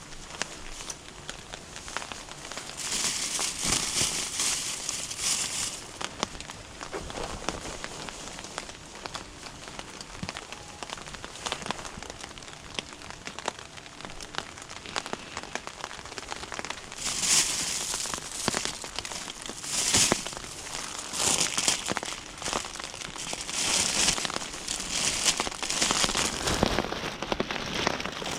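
Rain pattering steadily on a tarp, a dense run of fine ticks, with several louder rustling swells about three seconds in and again repeatedly in the second half.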